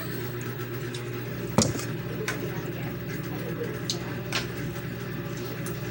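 Utensils clicking against a plate while eating, with one sharp click about a second and a half in and a few fainter ones after. A steady low hum runs underneath.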